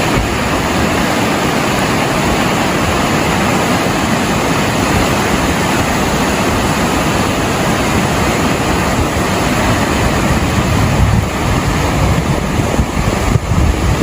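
Fast-flowing floodwater rushing, a loud steady roar of churning water.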